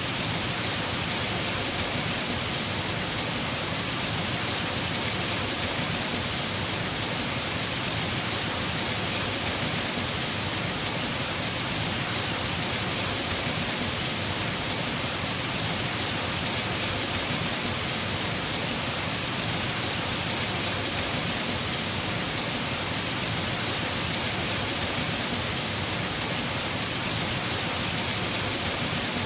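Heavy rain falling steadily on the roof of a house, an even hiss of countless drops.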